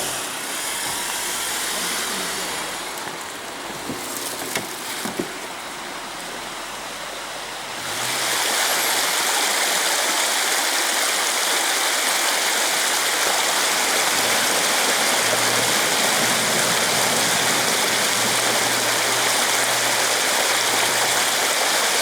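Rushing mountain river water, a loud steady rush that starts abruptly about eight seconds in. Before that there is a quieter noisy stretch with a few knocks, and a faint low vehicle engine hum sits under the water near the end.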